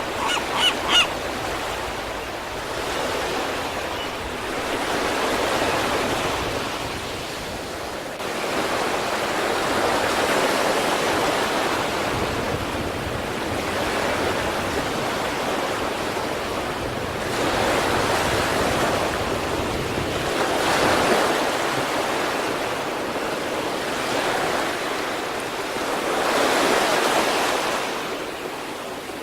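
East Sea surf breaking and washing onto the shore, swelling and falling every few seconds. A run of quick honking calls is heard over the first second.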